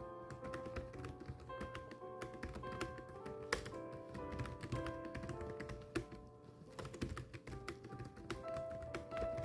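Quick, irregular typing keystrokes, several clicks a second, over background music with held notes.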